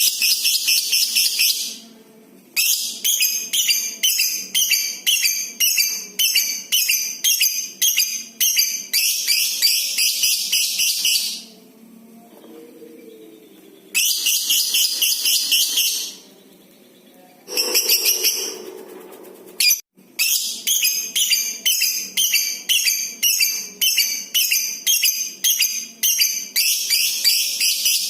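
Lovebird giving its long, shrill chattering trill (ngekek): runs of rapid, high-pitched pulses that run together into unbroken trills of about two seconds, repeated with short pauses between.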